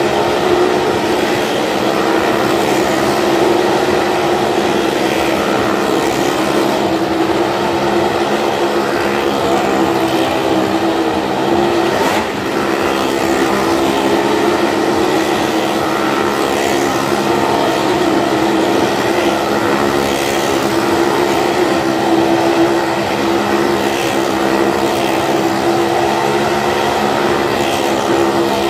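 Several car and motorcycle engines running hard together as they circle the wooden wall of a well-of-death pit, forming one loud, steady drone.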